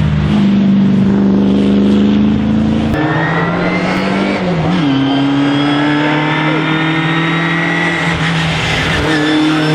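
Racing car engine accelerating hard, its pitch climbing and then stepping at gear changes, about three times.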